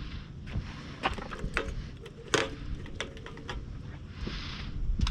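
Bird feeder being handled while it is filled with seed: irregular clicks and knocks, the sharpest about two and a half seconds in, and a short hiss of pouring seed near the end, over a low rumble of wind on the microphone.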